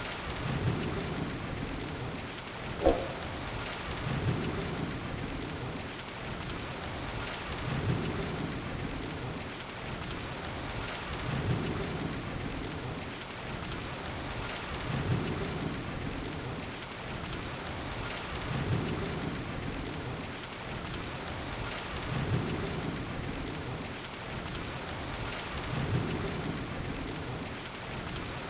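Steady heavy rain hissing, with low rumbles that swell and fade at even intervals about every three and a half seconds. There is a single sharp knock about three seconds in.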